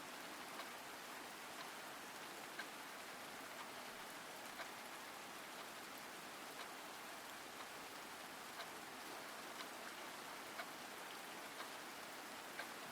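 Steady rain, a soft, even hiss with scattered individual drops ticking about once a second.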